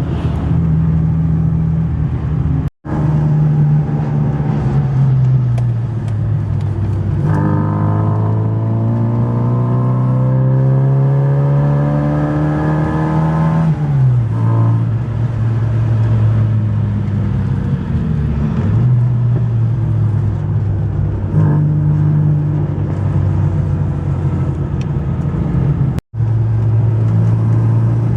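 Mini Downton's tuned four-cylinder A-series engine under way: it runs steadily, then about seven seconds in revs up smoothly through a gear for about six seconds, drops in pitch at the change, and runs on at a steady speed. The sound cuts out for a moment twice.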